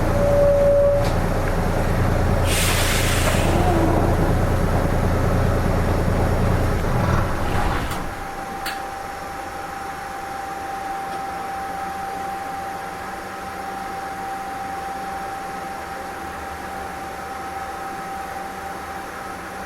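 Nissan Diesel KK-RM252GSN bus's diesel engine running low, with a short hiss of compressed air about three seconds in. At about eight seconds the engine rumble cuts off, leaving a steady high hum and a couple of clicks.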